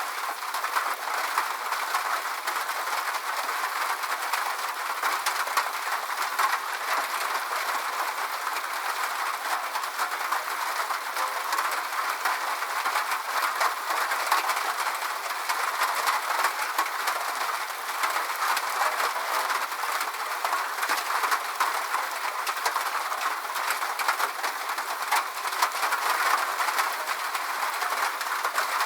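Steady rain falling: an even hiss of rain made of many small, irregular drop ticks, with no deep sound beneath it.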